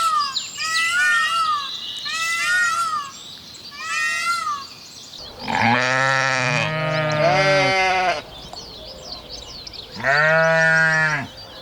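Farm animal calls: about four short, high-pitched calls in quick succession, then two long, low bleats, one about halfway through and another near the end.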